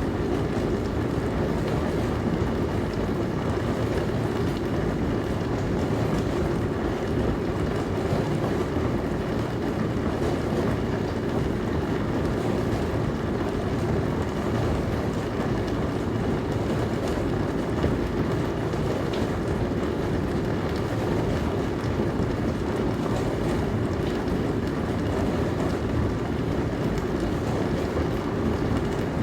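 Dishwasher running: a steady wash noise of water spraying inside the tub over the low hum of the pump, with no breaks.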